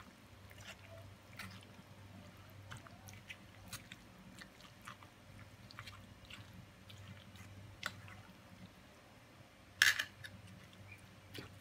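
Macaroni salad in a mayonnaise and cream dressing being stirred: faint wet squelching with many small scattered clicks, and one louder clatter about ten seconds in.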